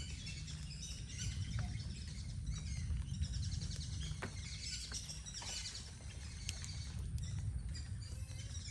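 Small birds chirping and twittering in short repeated trills, over a steady low rumble.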